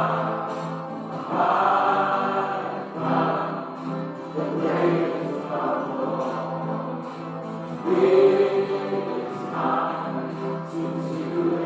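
A choir singing a slow hymn with accompaniment, in long held phrases over a steady low note.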